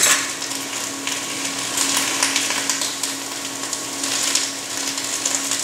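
Cabbage and onion frying in hot oil in a cast-iron pot: a steady sizzle over a steady low hum, with a few faint crackles from a spice mill being turned.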